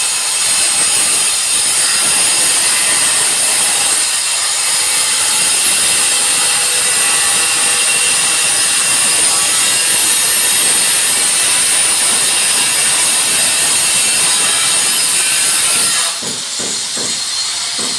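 Power cutting tool running steadily, a high-pitched whine over hiss, that stops abruptly about sixteen seconds in.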